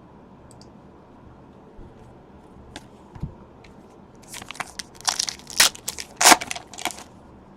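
Foil trading-card pack wrapper being torn open and crinkled by hand, a run of sharp crackles starting about halfway through after a few faint ticks.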